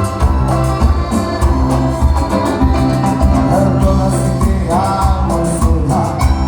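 Live cuarteto band music: keyboard chords over a strong, evenly pulsing bass beat, with cymbal strokes on top.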